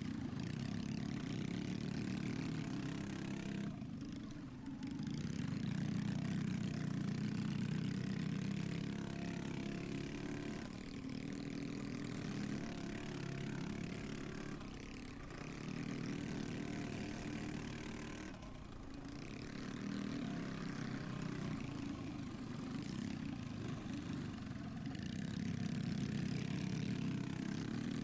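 Pit bike engine running hard around a dirt track, revving up and backing off repeatedly; the throttle is chopped a few times, around 4 s, 15 s and 19 s in.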